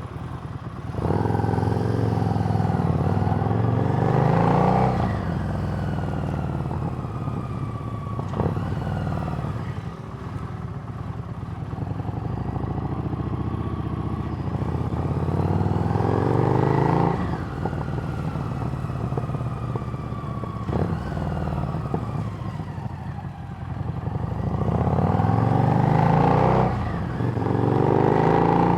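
Harley-Davidson Street Rod's 750 cc V-twin through a Screamin' Eagle exhaust, riding: the revs climb three times, each climb cut off sharply, and the engine note falls away as it coasts between.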